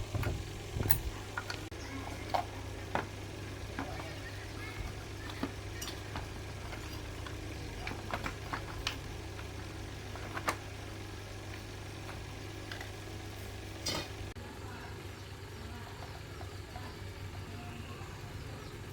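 Steady low hum with scattered light clicks and metallic taps of tools and small parts being handled during a repair.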